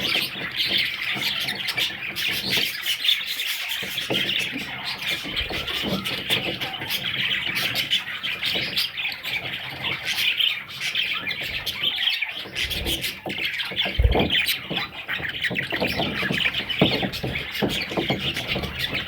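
Budgerigars chattering and squawking, with many short calls overlapping in a continuous chorus.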